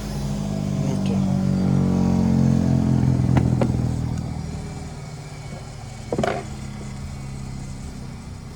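A motor running with a steady low hum that swells over the first few seconds and then fades away, with a few sharp clicks: two close together in the middle and one near the end.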